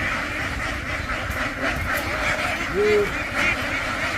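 A large flock of ducks quacking together in a dense, continuous chatter, with one louder, drawn-out call a little under three seconds in.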